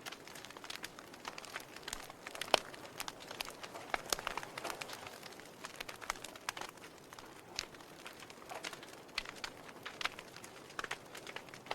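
Logs burning in a fireplace, crackling and popping irregularly over a soft hiss, with one sharper pop about two and a half seconds in.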